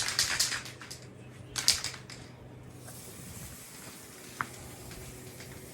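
Aerosol spray paint can hissing in two bursts, a longer one at the start and a shorter one about a second and a half later, then a brief sharp click about four seconds in.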